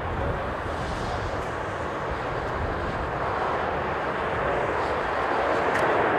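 Jet airliner engines drawing nearer, a steady rushing noise that grows gradually louder, with low, uneven wind rumble on the microphone.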